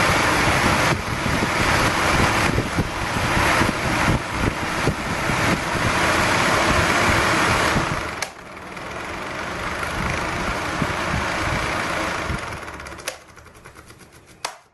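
Whirlpool range hood's exhaust fan running on its top speed, a loud steady whir of motor and rushing air. About eight seconds in it drops sharply to a quieter run, then dies away near the end, with a couple of clicks.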